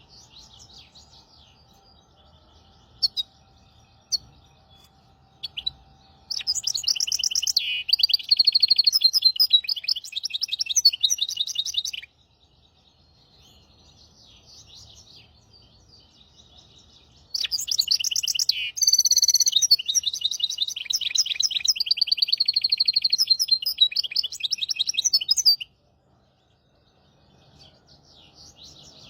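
Hybrid finch singing: two long phrases of rapid, trilled song, one starting about six seconds in and lasting about six seconds, the other starting about seventeen seconds in and lasting about eight seconds, with soft scattered chirps between them.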